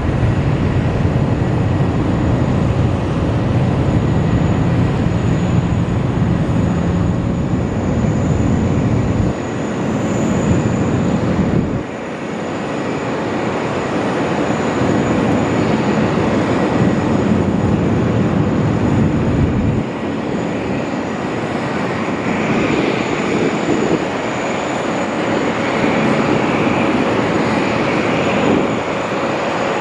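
Boeing 777X's GE9X turbofan engines during a display flight: a loud, steady jet noise with a thin high whine. The low rumble drops suddenly about a third of the way in and again about two-thirds of the way in.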